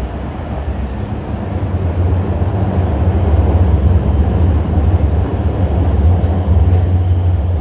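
Chengdu Metro Line 7 Type A train running at speed between stations, heard from inside the car: a loud, steady deep rumble of wheels and running gear that grows louder about two seconds in.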